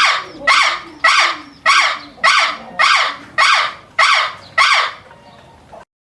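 An animal's harsh calls repeated in a steady series, a little under two a second, about ten in all, cutting off abruptly near the end.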